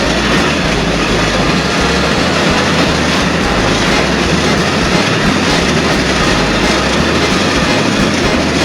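Train running with a steady rolling noise.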